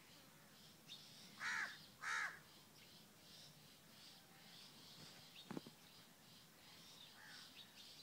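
A bird calling twice in quick succession about a second and a half in, over faint, steady, high chirping that repeats a couple of times a second. A single short knock sounds about five and a half seconds in.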